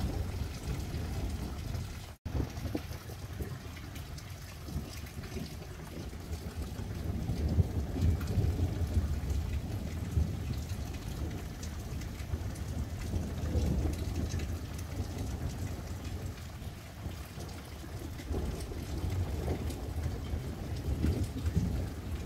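Steady rain falling on fields and a road, under a low rumble that swells and fades several times. The sound cuts out for an instant about two seconds in.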